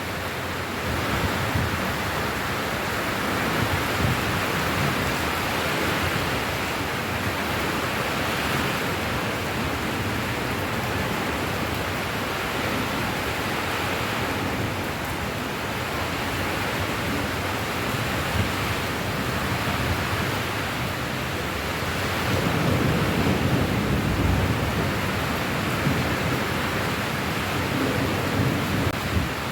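Steady heavy rain, an even hiss of falling water. A low rumble swells for a few seconds past the middle.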